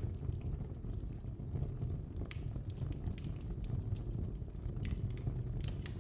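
Wood fire burning in a fireplace with a low steady rumble and scattered sharp crackles and pops, a few of them louder, about two seconds in and near the end.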